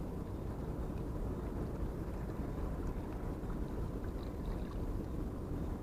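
Steady low rumble of harbour background noise, with a few faint high chirps about four seconds in.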